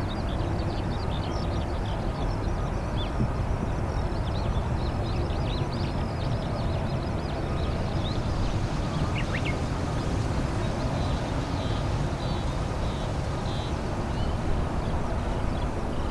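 Steady low rumble of a Boeing 737-800 airliner's jet engines at a distance, with many short high chirps of small birds over it.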